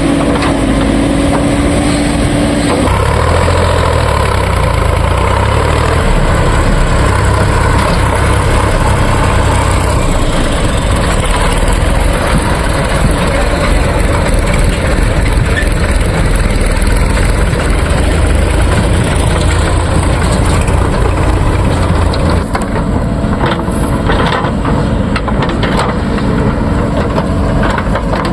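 Backhoe loader's diesel engine working, picking up revs about three seconds in and easing back about 22 seconds in. Several sharp knocks and clatters follow near the end.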